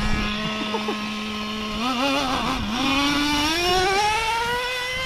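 Small nitro (glow-fuel) engine of an RC truck holding a steady note, then throttled up about two seconds in: the pitch wavers, then climbs steadily as the truck accelerates.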